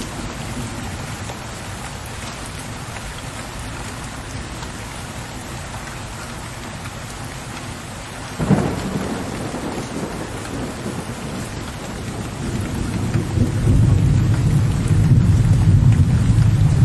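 Steady rain falling, with thunder. A sudden thunderclap comes a little past halfway and dies away, then a deep, low rumble swells and is loudest near the end.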